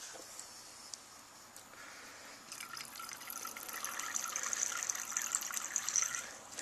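Water running into a container, starting about two and a half seconds in and stopping just before the end.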